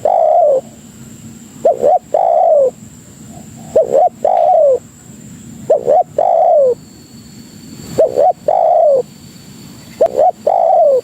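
Spotted dove (tekukur) cooing. The same call repeats about every two seconds, five times: two short quick coos, then a longer coo that falls in pitch.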